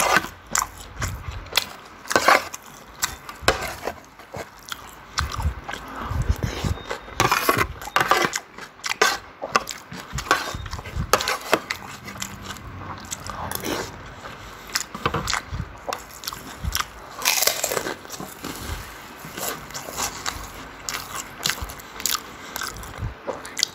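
Close-miked eating: chewing and biting of rice and fried food, with irregular soft crunches and wet mouth clicks.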